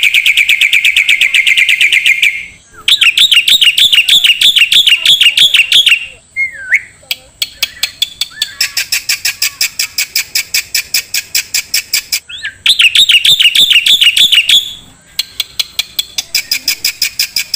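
A songbird singing loud, fast trills of rapidly repeated notes, in bursts of two to four seconds with short breaks between them.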